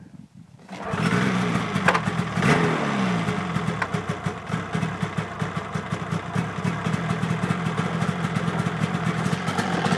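Polaris RMK 700 two-stroke twin snowmobile engine on its stock muffler starting about a second in, revs rising and falling briefly, then idling steadily and very quietly.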